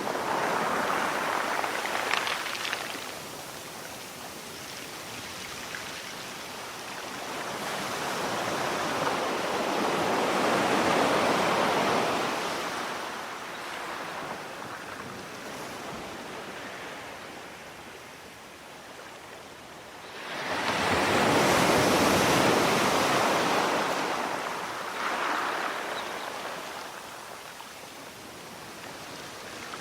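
Sea surf: waves breaking and washing back in slow surges about every ten seconds. The loudest wave comes in suddenly about two-thirds of the way through.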